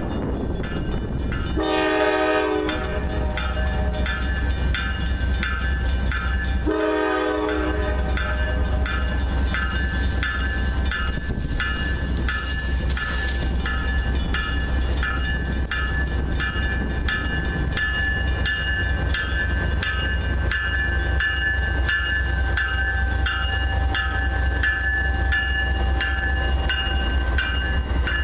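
Norfolk Southern GE diesel locomotive passing over a grade crossing: two horn blasts of about a second each, near the start and about seven seconds in, over the steady rumble of the engine and train. A crossing signal bell rings in a steady repeating rhythm throughout as the heavy dimensional-load flatcar rolls by.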